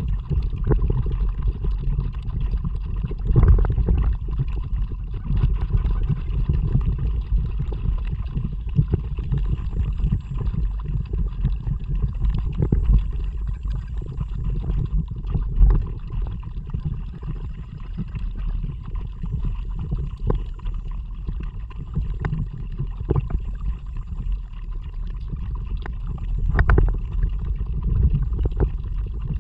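Kayak paddling: water splashing and gurgling around the paddle and hull, with scattered sharper splashes, over a steady low wind rumble on the microphone.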